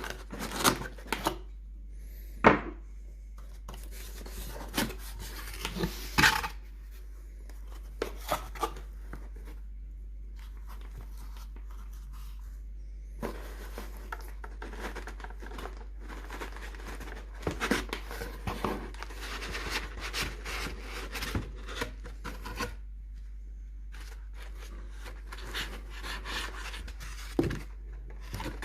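Packaging of a servo motor kit being handled and unpacked: irregular rustling, scraping and tearing, with a few sharp knocks, the loudest about two seconds in.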